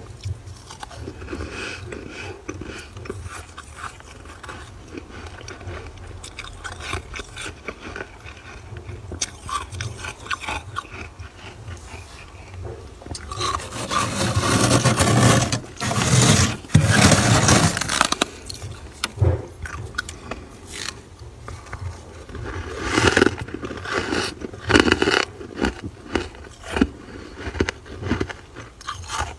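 Frost being scraped off the inside of a freezer: many short scraping strokes through flaky ice, louder for several seconds about halfway through and again later on.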